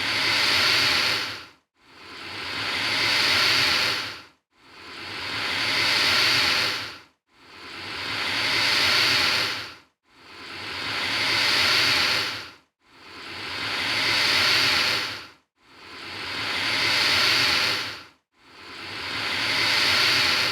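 Alligator hissing over and over, about every 2.7 seconds, eight times in all. Each hiss swells for about two seconds and then breaks off sharply, the same hiss each time as if looped.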